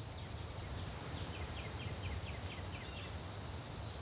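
Natural outdoor ambience: a steady high insect drone over a low rumble, with a quick run of about seven short chirps, like a bird's, between about one and three seconds in.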